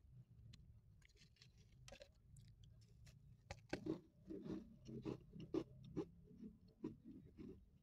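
Faint close-up chewing and crunching of a crumbly cookie, a run of short crackly bites starting about halfway in.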